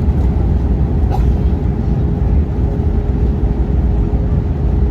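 Steady low roar of an airliner cabin in flight: engine and airflow noise, with a faint steady hum on top.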